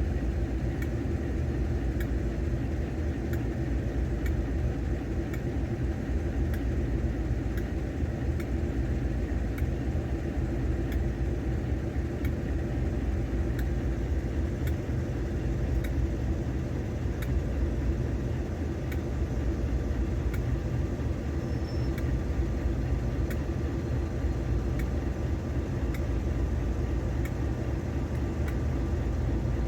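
Diesel locomotive engine running steadily, a deep, even rumble that holds without change.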